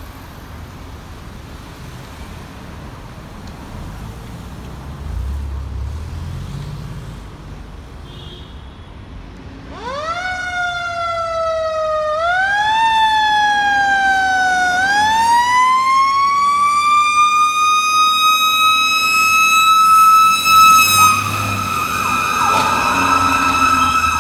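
Federal Q2b mechanical fire-engine siren winding up about ten seconds in after a stretch of low truck rumble. It gives two short rises that sag back, then climbs to a loud, steady high-pitched peak held to the end.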